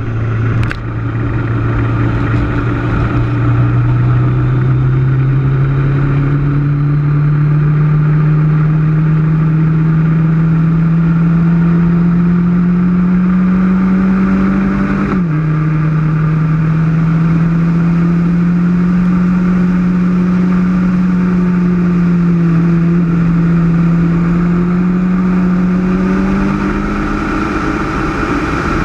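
Kawasaki Ninja ZX-10 sport bike's inline-four engine pulling steadily under way, its note rising slowly for about fifteen seconds. The pitch then drops sharply once, as at an upshift, holds steady and eases off near the end. Wind and road rush lie under it throughout.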